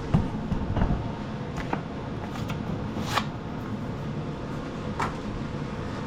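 A few scattered knocks and clicks of parts or tools being handled in a workshop, the sharpest about three seconds in, over a steady background hum.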